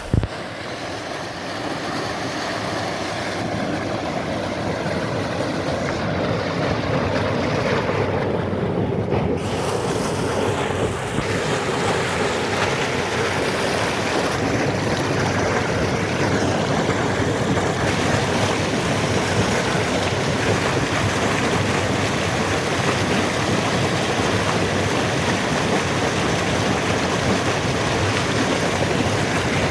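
Fast-flowing mountain river rushing steadily, a loud, even rush of water that builds over the first couple of seconds and then holds.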